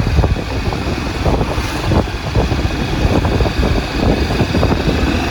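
Motorcycle running along a road with steady wind buffeting the microphone, a dense low rumble throughout.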